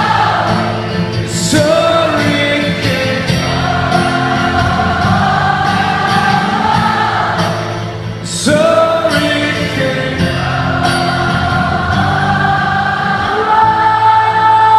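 Live rock band music with long held, drawn-out sung notes, loud and steady; the many-voiced singing sounds like a choir.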